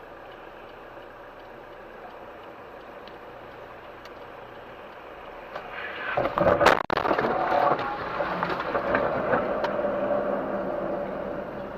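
A car's road noise, then a sudden loud bang about six and a half seconds in, typical of a collision, followed by continued loud noise.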